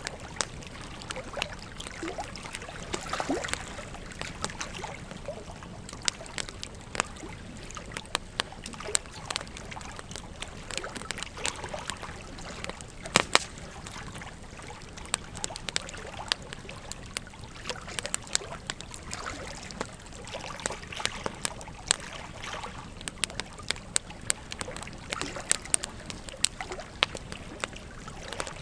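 Wood campfire crackling, with frequent irregular sharp pops and snaps, a few louder ones, over the steady rush of a flowing river.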